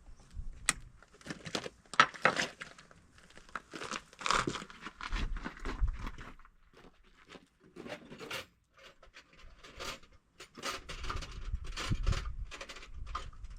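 Irregular clicks, scrapes and rattles of hands working with tools and parts, with a few sharp knocks among them.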